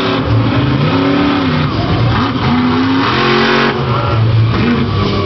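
Monster truck engine revving hard, its pitch rising and falling several times in quick swells.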